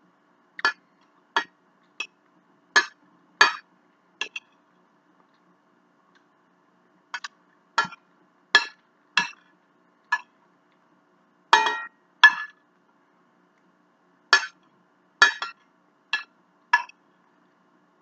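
Cutlery clinking lightly against a dish while eating: about seventeen short clinks at an irregular pace, a few of them ringing briefly, with pauses of a couple of seconds between runs.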